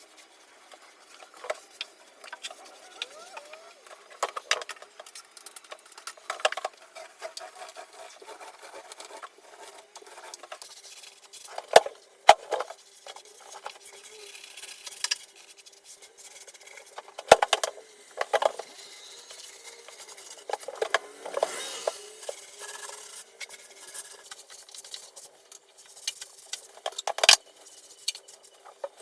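Hand work on a surface: rubbing and scraping that comes and goes, with sharp knocks and clacks now and then, a few of them loud.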